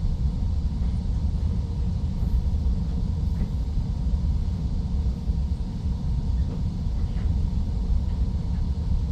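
Steady low rumble of a regional passenger train running, heard from inside the carriage as it comes into its stop, with a faint steady hum over it.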